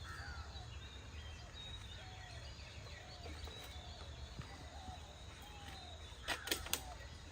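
Birds calling: a short arched note repeated over and over, a little more than once a second, with higher chirps above it over a low steady hum. Three sharp knocks come close together about six seconds in.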